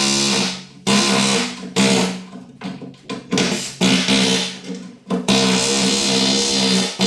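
Pneumatic air hammer chiselling hardened concrete out of a steel skid steer bucket, fired in short bursts of about a second with brief pauses between.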